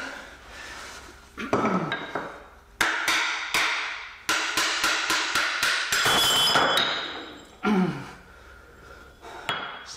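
Metal tools striking and clanking on metal: a run of sharp hits in the middle few seconds, some of them leaving a short metallic ring.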